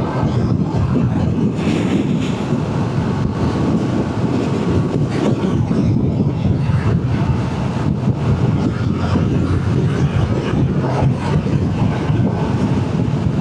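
Wind rushing over the microphone on a moving motorcycle, with the engine running steadily underneath at cruising speed.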